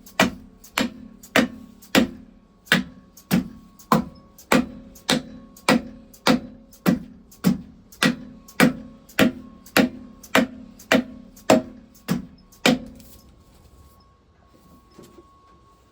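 Dead blow hammer tapping the plugs of a Lister TM engine, about twenty evenly spaced blows at roughly one every half second that stop about thirteen seconds in. The blows bed the string packing into the gap under the plugs so they seat before being tightened down.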